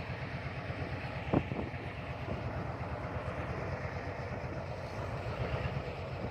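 Diesel engine of heavy earthmoving machinery running steadily with an even low throb, and a single metallic clank about a second and a half in.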